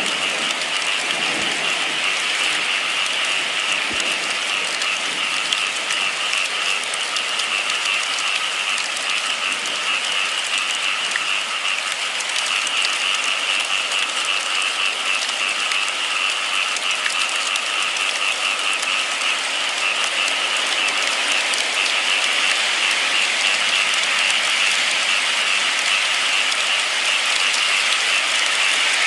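Steady heavy rain, a dense even hiss of drops with fine crackle, growing slightly louder near the end.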